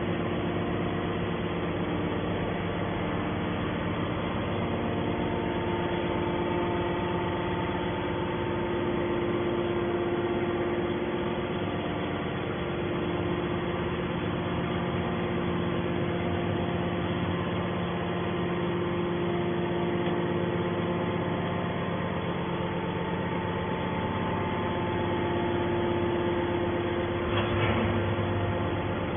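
Hydraulic baler's motor and pump running with a steady hum of several tones, with a brief louder clatter near the end.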